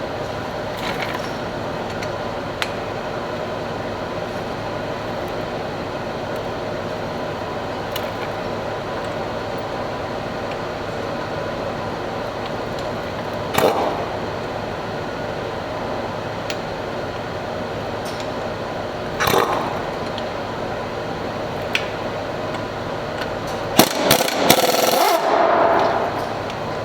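Tool work on a car: scattered sharp clicks and clanks, two short louder bursts partway through and a longer, loudest burst of tool noise near the end, over a steady mechanical hum.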